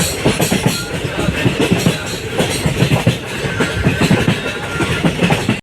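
ICF passenger coaches of a moving express train, wheels clattering over the rail joints in a quick, irregular run of knocks over a steady rushing noise.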